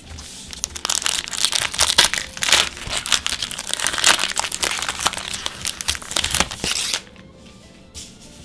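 Foil wrapper of a Magic: The Gathering booster pack being torn open and crinkled by hand, a dense run of crackles that stops about seven seconds in.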